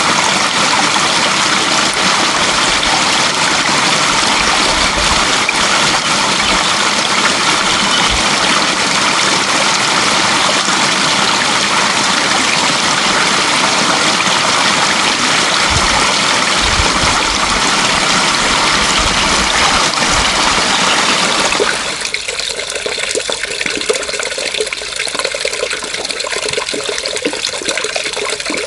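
Running water in a loud, steady rush. Near the end it changes abruptly to a quieter, lighter splashing and trickling.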